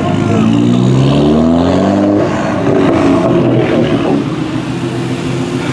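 Car engine revving up, its pitch climbing over about two seconds, then holding before it drops away about four seconds in.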